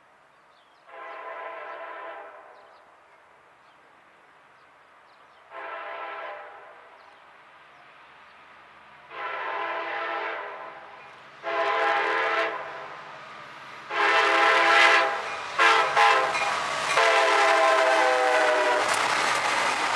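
Diesel freight locomotive's multi-note air horn sounding a series of blasts that grow louder as the train approaches, the later ones closely spaced and the last held about two seconds. A low diesel engine rumble comes in under the horn, and near the end the lead locomotive passes with rushing wheel-on-rail noise.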